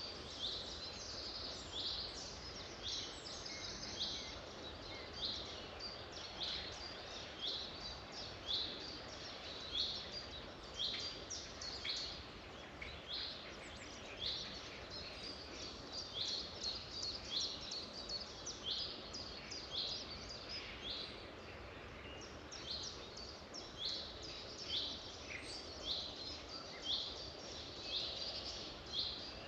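Songbirds chirping: short, high calls repeating about once a second, over a steady hiss of background noise.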